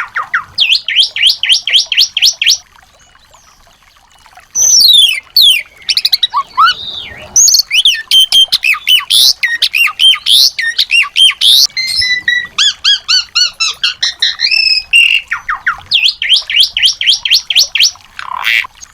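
Small songbirds singing in fast runs of repeated sweeping notes and varied whistles. The song breaks off for about two seconds, starting about three seconds in.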